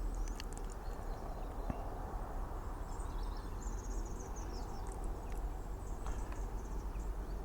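Steady low outdoor background noise with faint, high, chirping calls in the middle, like small birds, and a few light clicks.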